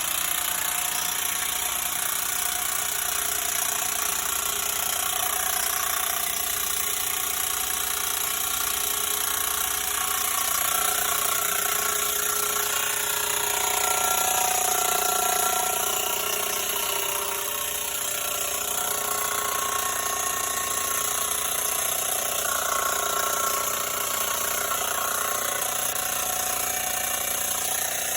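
A machine running steadily, with a whining tone that shifts in pitch about halfway through.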